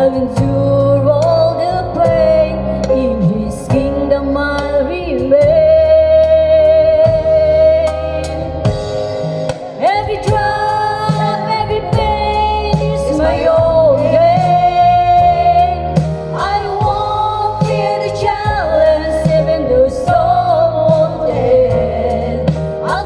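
A woman singing a gospel song, holding long notes, over instrumental backing with a steady bass and a regular drum beat.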